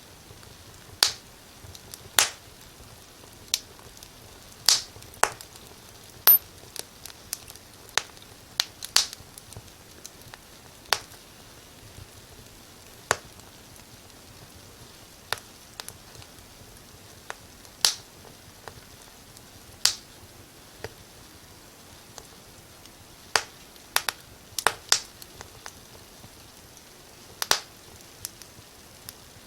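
Wood fire crackling: sharp, irregular pops and snaps, roughly one a second, some much louder than others, over a faint steady hiss.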